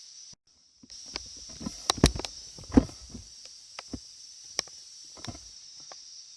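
A string of irregular knocks and clatters, loudest about two and three seconds in, over a steady high hiss.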